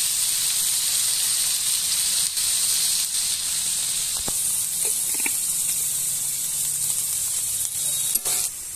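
Eggplant, onion and green chillies sizzling steadily in hot oil in a kadai. Near the end a spatula knocks against the pan and the sizzle gets quieter.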